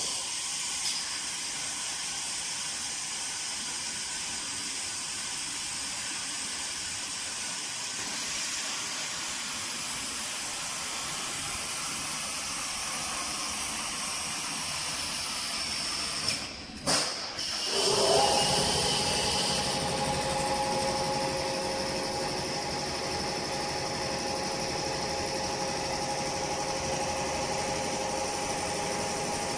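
Meat-strip processing machinery running: a steady hiss for about the first half, then after a short break a fuller machine noise with a steady whine.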